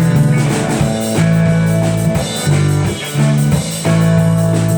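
Live rock band playing an instrumental passage between vocal lines: electric guitar, bass and drum kit.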